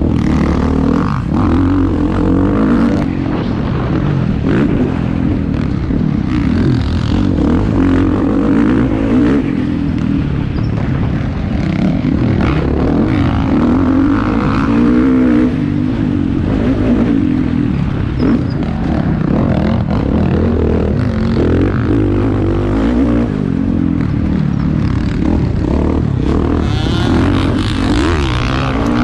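Motocross motorcycle engines racing, revving up and down continuously.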